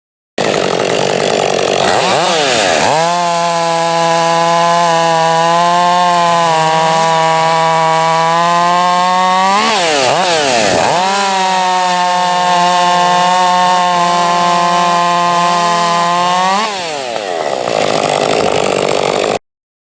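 Chainsaw running: it spins up to a high steady speed, dips once and picks up again partway through, then winds down near the end.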